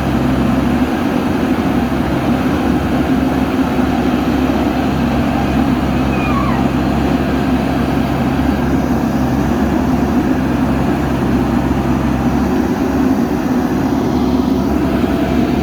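JCB backhoe loader's diesel engine running steadily at an even speed, a constant low hum.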